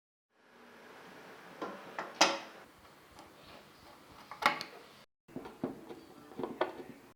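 Small metal parts being handled and set down on a work surface: scattered clicks and knocks over a faint hiss, with sharp clinks about two seconds in and about four and a half seconds in. The sound cuts out briefly about five seconds in.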